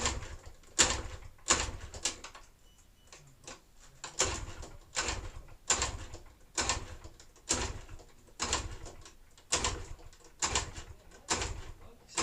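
Project motorcycle's engine being turned over with a heavy, even pulse about once a second, failing to catch. The owners suspect the engine is not drawing fuel through on starting because there is not enough vacuum.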